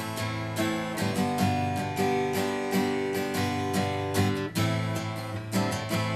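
Seagull S6 Original cedar-top acoustic guitar played as a chorded accompaniment. The chords are picked and strummed in a steady pattern, with a brief break at a chord change about four and a half seconds in.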